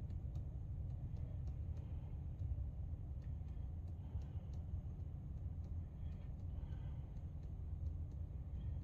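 A truck running with a steady low rumble, with faint scattered ticks over it.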